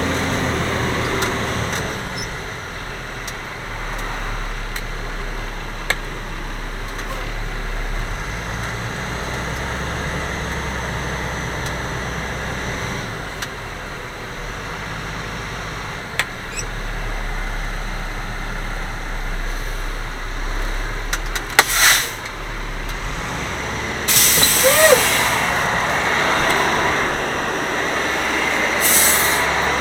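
Grapple garbage truck's diesel engine running, its low note shifting in steps, with short loud air hisses about two-thirds of the way through and again near the end.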